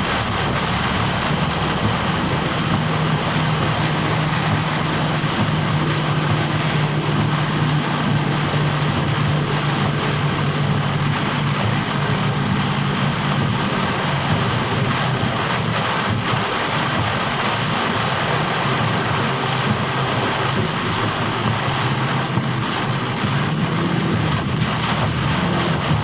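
Heavy rain and wet road noise heard inside a moving vehicle's cab, an even hiss over a steady low engine hum.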